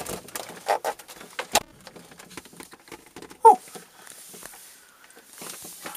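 Knocks, clicks and rustles of a person shifting about inside a closed, unplugged refrigerator, with one loud short squeak falling in pitch about three and a half seconds in.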